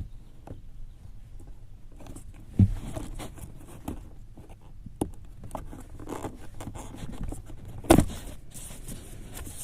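Plastic wiring-harness plug being unclipped and worked loose from the blower motor resistor: rustling and scraping with a few sharp clicks, the loudest one near the end.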